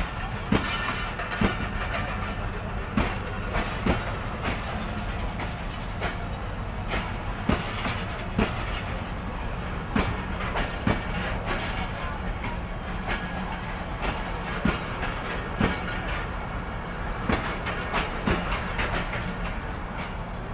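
Passenger train rolling past on jointed track over a steady low rumble. Its wheels clack over the rail joints every second or so, often in quick pairs.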